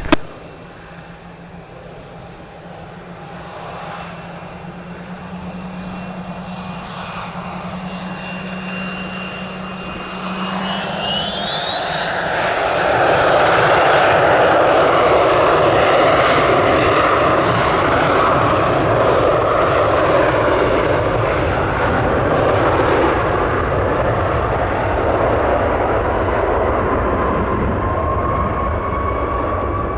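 Embraer ERJ-135 regional jet's twin rear-mounted turbofans spooling up for takeoff. A steady high whine climbs sharply in pitch about eleven seconds in, and the engine noise grows loud and then holds steady as the jet rolls down the runway.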